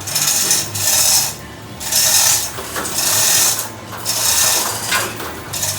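Hand-operated hoist ratcheting in repeated strokes, about one a second, with a hissy, rasping click as it lifts a heavy tank.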